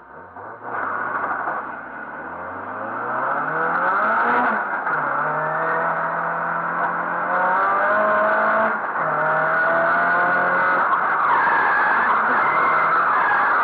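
Nissan 180SX's turbocharged SR20DET four-cylinder engine, heard from inside the cabin: the revs climb through two gear changes in the first five seconds, then hold high and steady with the tyres sliding and hissing as the car drifts, with a brief lift near the middle.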